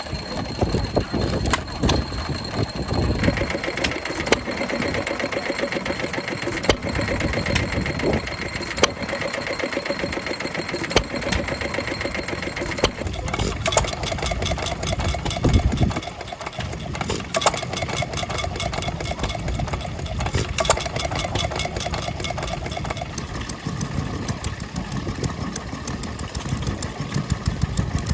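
Vintage stationary engines running, with a steady, rapid rhythmic clatter. Gusts of wind buffet the microphone with low rumbles.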